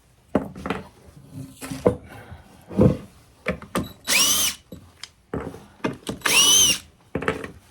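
Cordless drill run in two short bursts, each spinning up and winding down, as the clamping setup is taken apart. Knocks and clatter of tools and wood come between the bursts.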